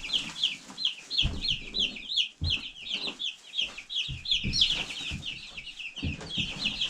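A brood of about thirty two-day-old chicks peeping continuously, many short high peeps overlapping, each sliding down in pitch. A few soft low thumps come through under them.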